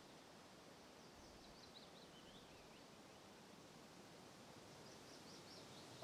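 Near-silent outdoor ambience with a small songbird's faint high chirps: a run that steps down in pitch about a second in, and another run near the end.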